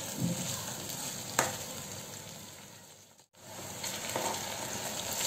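Chopped onion and potato sizzling in oil and butter in a kadhai while being stirred with a wooden spatula, with one sharp knock about a second and a half in. The sizzle fades and drops out briefly about three seconds in, then resumes.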